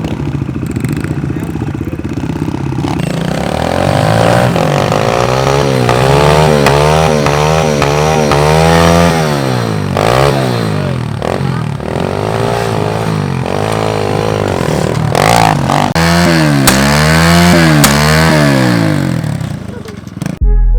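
Pit bike engines accelerating hard in a drag race, the revs climbing and dropping again and again as the riders shift through the gears.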